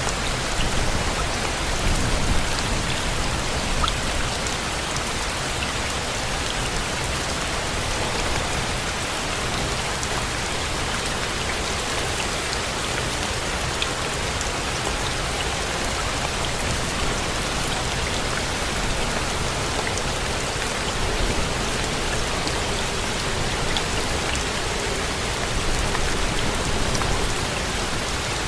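Steady rain: an even hiss with scattered drop ticks and a low rumble underneath that swells slightly near the start and near the end.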